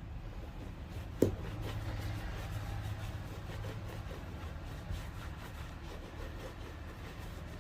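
Rubbing strokes worked over a shoe, with a single sharp knock about a second in.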